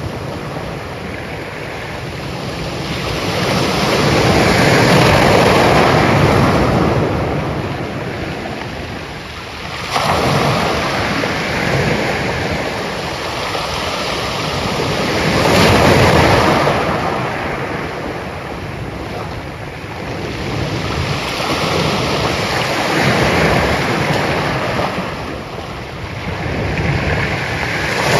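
Ocean waves breaking and washing up, the surf swelling and fading every few seconds, with one sudden surge about ten seconds in.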